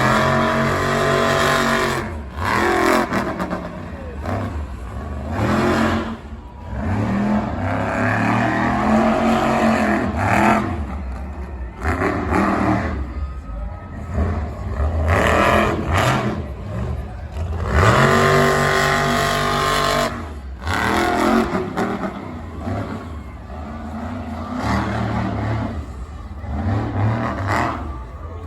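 Monster truck engine revving hard in repeated bursts, its pitch rising and falling, with brief drops off the throttle between bursts.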